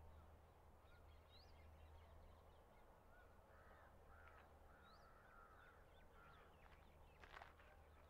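Faint bird calls: a high, short rising chirp about every three or four seconds and a run of warbled notes through the middle, over a faint low hum, with one sharp click near the end.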